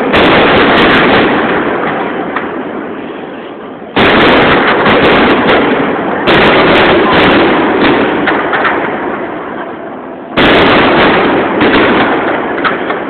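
Large aerial fireworks shells bursting: three sudden loud blasts, each trailing off into a long rumbling echo that fades over a few seconds.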